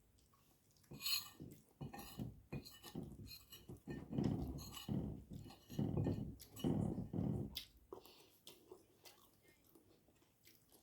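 Close-miked chewing and mouth sounds of someone eating, with small clicks of utensils on a plate. The chewing is loudest from about four to seven and a half seconds in, then dies away.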